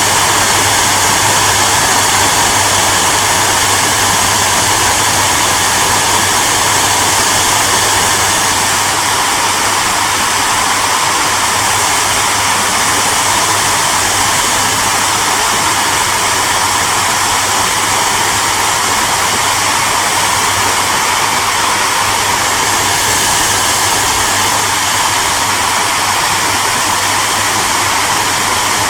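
Hair dryer running steadily: a constant loud rushing hiss of its fan and airflow over a low motor hum.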